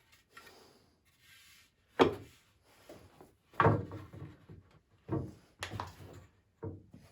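Poplar boards knocking and thudding as swing parts are handled and set down, about five separate wooden knocks with the loudest about two seconds in.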